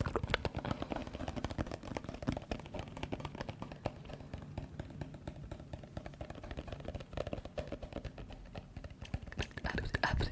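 ASMR tapping: fast, dense, irregular taps. They soften through the middle and pick up again near the end.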